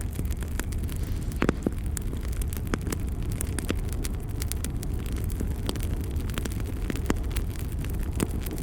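Wood fire burning in a fireplace: frequent sharp crackles and pops over a steady low rumble, with a louder pop about a second and a half in.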